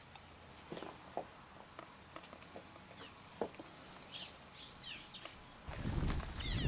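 Faint small-bird chirps with scattered light clicks and knocks, then near the end a louder low rushing noise sets in.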